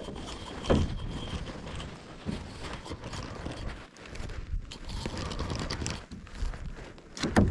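Scrapes and knocks of fishing gear being handled in a small boat while a pike is played on the rod, over a low rumble.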